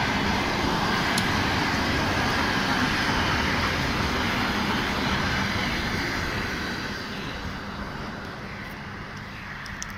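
Electric commuter train running along the tracks as it pulls away, a steady rumble that fades over the last few seconds.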